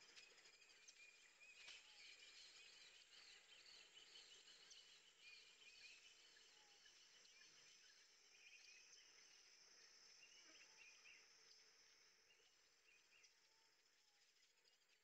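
Near silence, with faint high chirping throughout.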